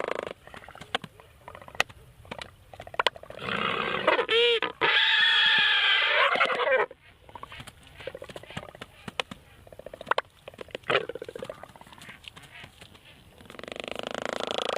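Albatrosses calling: a loud, long call from about four seconds in lasting some three seconds, weaker calls around ten seconds, and another loud call near the end, with scattered sharp clicks in between.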